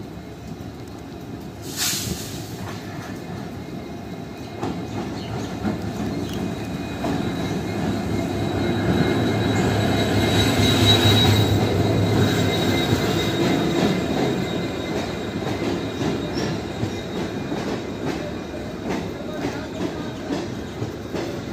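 Diesel locomotive of an arriving passenger train passing close below, its engine rumble building to loudest about halfway through with a high wheel squeal. Then the coaches roll by with repeated clacks of wheels over rail joints. A single sharp crack sounds about two seconds in.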